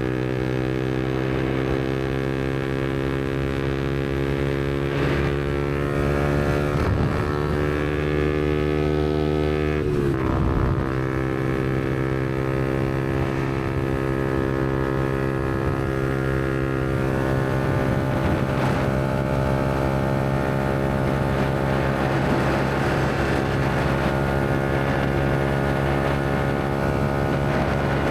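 Yamaha MT-125's single-cylinder four-stroke engine running steadily at cruising speed through a Black Widow aftermarket exhaust. Its note dips in pitch briefly about ten seconds in, then holds steady again.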